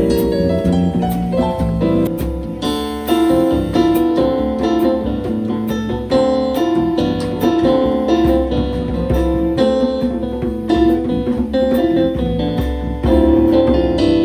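Live band playing instrumental music, led by a keyboard, over a steady bass line.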